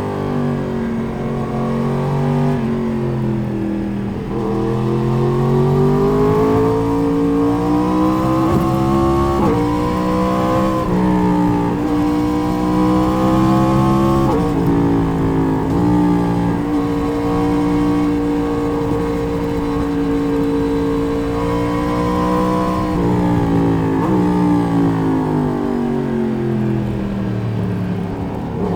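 Four-cylinder sport motorcycle engine heard onboard: the pitch falls off, then climbs through the gears with several quick upshifts, holds steady at a cruise, and winds down again as the bike slows near the end.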